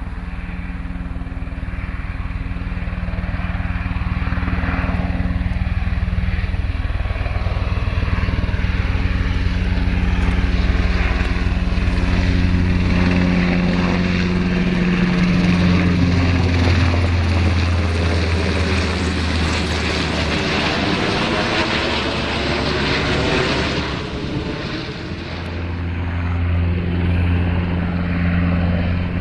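Low-flying military aircraft: a steady engine drone that builds over the first few seconds, with a sweeping, phasing whoosh as it passes close by around the middle.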